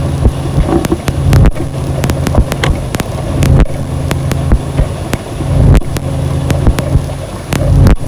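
Ambient noise music: a loud, dense low drone with steady humming tones, broken by frequent sharp crackles and clicks.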